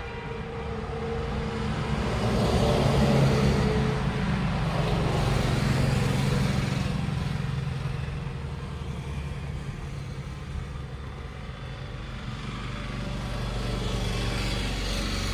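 A motor vehicle's engine running, with a low rumble that grows louder about three seconds in, fades, and swells again near the end, like traffic passing close by.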